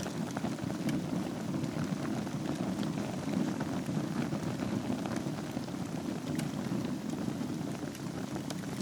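Wood fire burning in a fireplace over glowing embers: a steady low rush of flames with scattered small crackles and pops.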